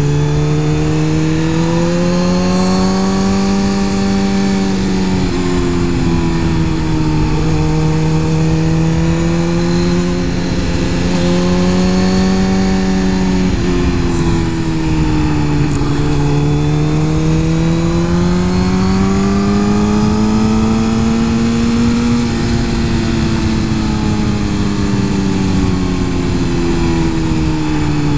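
Suzuki GSX-R 1000 superbike's inline-four engine running on the move, its pitch slowly rising and falling as the throttle is eased on and off, over a steady rush of wind noise.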